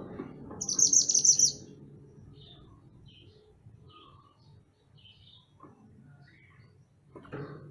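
Mantenan gunung songbird singing: a loud, fast phrase of high repeated twittering notes lasting about a second near the start, then soft scattered chirps, with another short call near the end.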